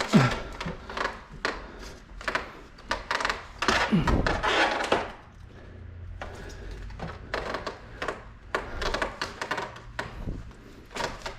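Handling noise from working on an air conditioner indoor unit: a busy run of clicks, knocks and rustles from plastic parts and wrapped piping, with a louder stretch about four seconds in.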